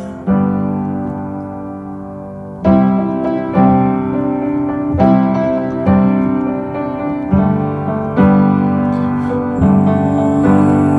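Instrumental break in a song: piano chords, one held chord, then chords struck about once a second.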